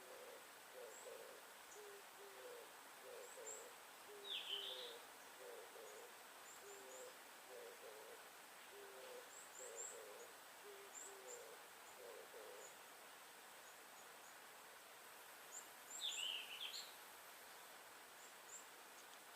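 Faint forest ambience: a bird's soft, low hooting notes repeat quickly for the first dozen seconds or so, over faint high chirps of small birds. A louder chirping bird call breaks in twice, about four seconds in and again near the end.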